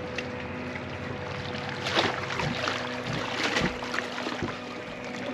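Small waves lapping and splashing against a lakeshore, with two louder splashes about two and three and a half seconds in.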